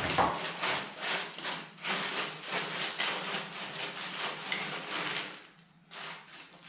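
Hard object scraping and knocking on concrete in a quick run of rough, irregular strokes that stops about five and a half seconds in.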